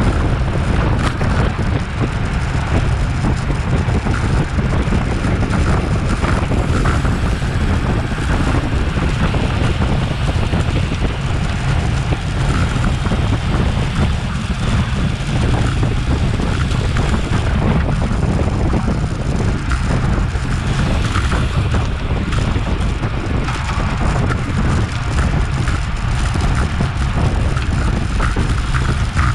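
Steady wind buffeting on an action camera's microphone on a road bicycle moving at race speed, a loud low rumble that does not let up.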